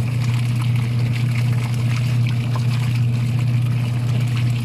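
Washing machine's wash motor running with a steady hum while it churns water and clothes in the tub, switched by hand because its timer switch is broken.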